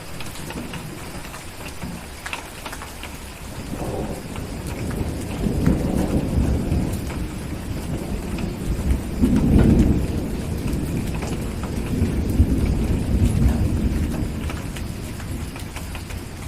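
Steady rain with a long roll of thunder that builds about four seconds in, is loudest around the middle, rumbles on and slowly fades near the end.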